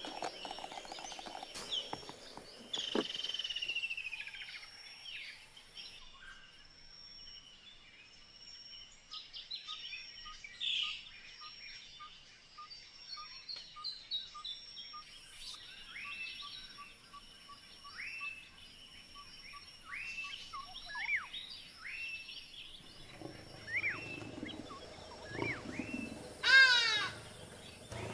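Several wild birds calling over quiet outdoor ambience: repeated short downward-swept chirps, a steady run of evenly spaced pips through the middle, and a loud rapid descending series of calls near the end.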